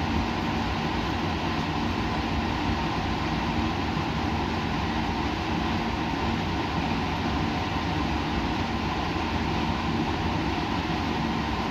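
Steady laboratory background noise: an unchanging rushing hum with a few low droning tones, like running equipment or ventilation.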